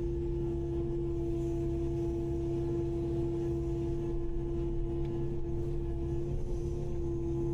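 Kubota KX080-5 excavator running steadily, a constant whine over a low engine rumble with no change in speed.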